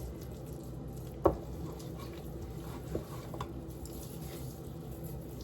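Hands massaging oil and seasonings into raw chicken drumsticks in a baking pan, with soft wet squishing, and one sharp knock about a second in.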